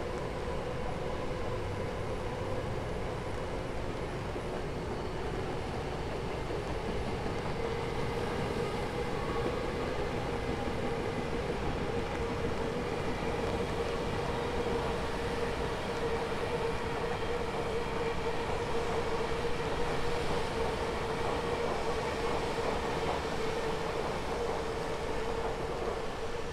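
A train running past with a steady whine, which grows stronger about a third of the way in and fades near the end, under the even hiss of rain.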